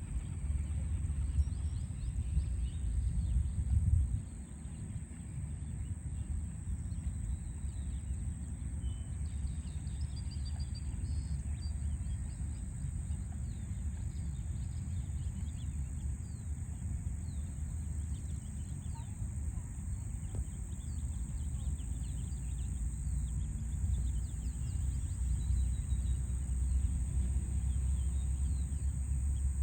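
Small birds chirping in short high notes over a steady low rumble of city background noise, with a steady high-pitched hiss throughout. The chirps come in a cluster about a third of the way in, then scattered through the middle.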